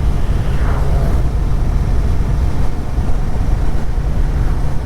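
Motorcycle on the move: a steady low rumble of engine, road and wind buffeting on the rider's microphone.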